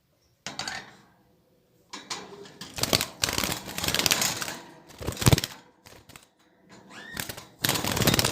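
Rapid clattering and rattling in a birdcage, in irregular bursts that start about half a second in and go on to the end.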